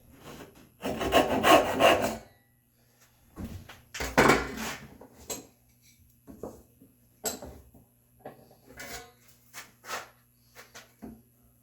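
Hand saw cutting red oak: a run of quick strokes about a second in and another around four seconds, then shorter, scattered scrapes and knocks of wood being worked.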